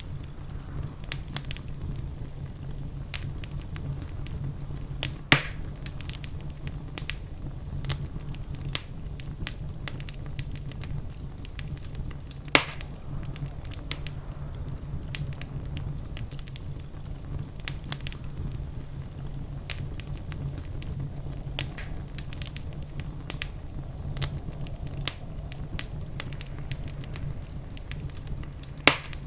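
Fireplace fire crackling, with frequent small snaps over a low steady rumble; three louder pops stand out, about five seconds in, about twelve seconds in, and near the end.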